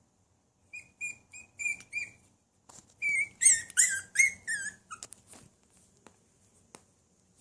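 Maltese puppy whimpering: a run of about five short, high-pitched whines, then a louder burst of whines falling in pitch about three seconds in, followed by a few soft clicks.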